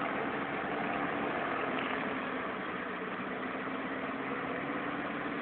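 A vehicle engine idling steadily, an even low hum with no change in speed.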